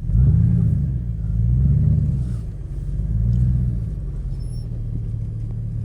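Engine revved three times, each rev rising and falling in pitch, then settling into a steady rumbling idle.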